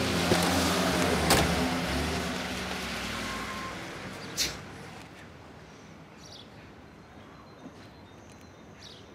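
Lada Zhiguli estate car's engine revving as the car pulls away, then fading out over about five seconds. A few sharp knocks, the clearest about four seconds in.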